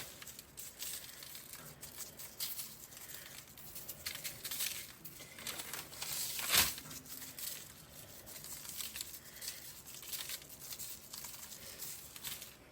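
Rustling, crinkling handling noise with scattered short scrapes and taps as steaks are seasoned by hand, with one sharper tap about six and a half seconds in.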